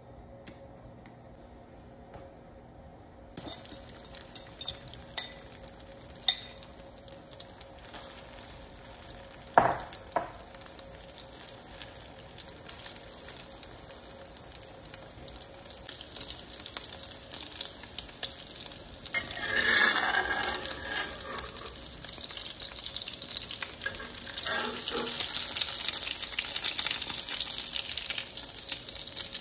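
An egg and vegetable omelette mixture frying in olive oil in a honeycomb-textured stainless steel wok: the sizzle starts a few seconds in and grows louder and hissier in the second half. Sharp clicks of a fork and spatula against the pan, the loudest about ten seconds in.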